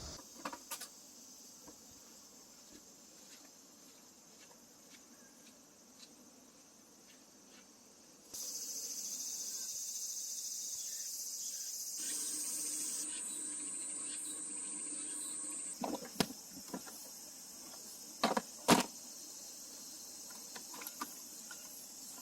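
Steady, high-pitched chirring of insects. It grows louder about eight seconds in and drops back after about sixteen seconds, with a few sharp knocks near the end.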